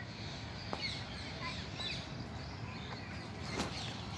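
Faint outdoor ambience with birds chirping here and there, and a faint knock about three and a half seconds in.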